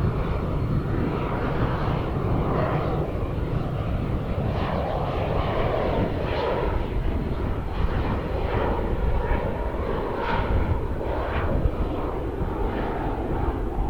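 Pilatus PC-24 business jet's twin turbofan engines at take-off power, a loud steady jet noise with a deep rumble and crackling from about four seconds in.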